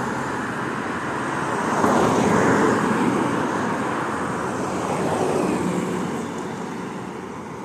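Road traffic noise: a steady rush of tyres and engines that swells as a vehicle passes about two seconds in, then slowly fades.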